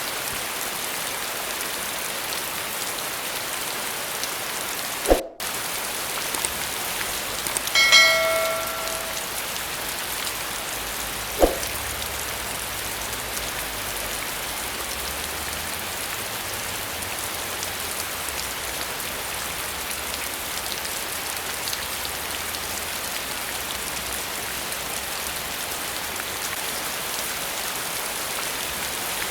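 Steady rain falling. About five seconds in there is a short knock with a brief dropout in the sound, around eight seconds a brief ringing ping with several overtones, and a sharp knock at about eleven seconds.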